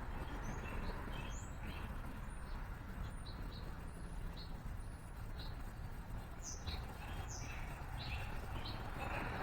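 Small songbirds chirping: many short, quick chirps and a few higher slurred notes, over a steady low background rumble.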